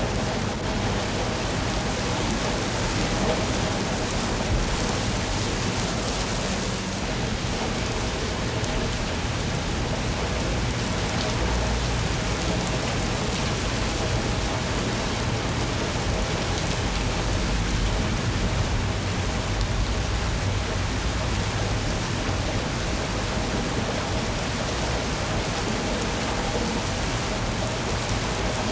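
Steady rain falling with a dense, even hiss. A low rumble runs underneath and swells a little past the middle.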